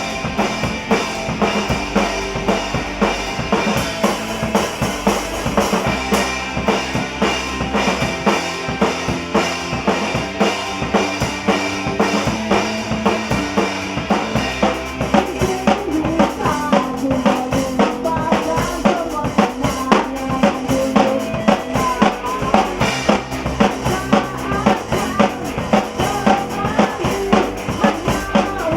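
Band playing a song live, with the drum kit's bass drum and snare keeping a steady, driving beat under sustained instruments. A wavering melody line comes in over it about halfway through.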